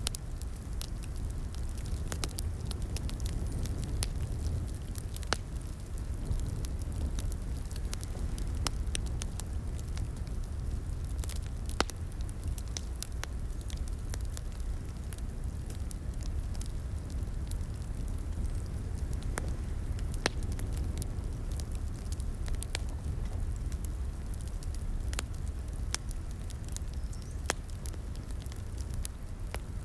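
Wood fire burning in a fireplace: a steady low rumble of flames with irregular sharp crackles and pops from the burning logs, the loudest about twelve and twenty seconds in.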